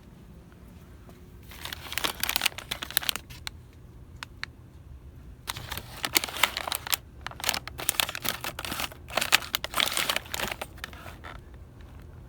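Crinkly packaging being handled, crackling in two spells: a short one about two seconds in and a longer one from about five to eleven seconds in.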